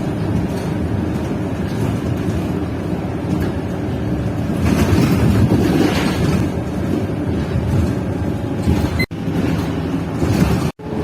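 Engine and road noise of a moving city bus heard from inside: a steady low rumble that swells and eases. It cuts out twice for an instant near the end.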